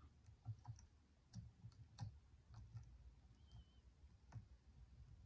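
Faint, irregular small metallic clicks of a lock pick working the pins of a padlock under tension, with the pins feeling crunchy and stiff.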